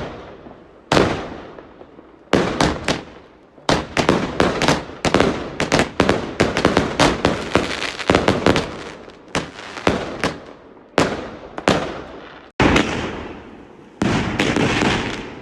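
Fireworks going off: a run of sharp bangs, each with a short echoing tail, thickening into rapid crackling in the middle. After a short gap comes a sustained crackling burst near the end.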